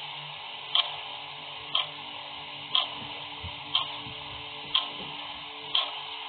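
Clock ticking, one sharp tick each second, over a steady background hiss.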